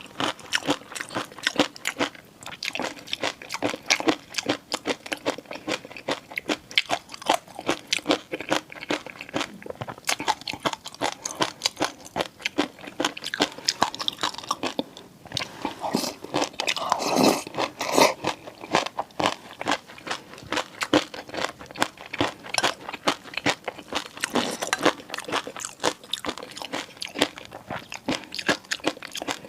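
Close-miked eating: a rapid, continuous run of crisp crunching bites and chewing, with a louder stretch about 16 to 18 seconds in.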